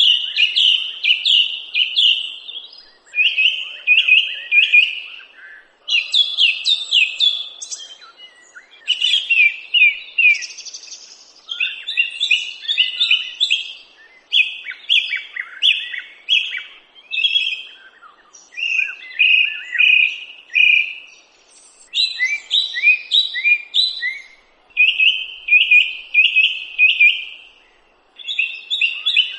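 Songbird singing: a short phrase of quick, high chirping notes, about two seconds long, repeated over and over with brief pauses between.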